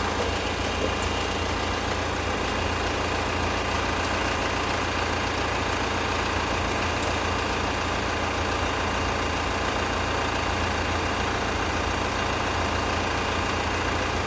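Mercedes-Benz car engine idling steadily, with an even hum and no revving.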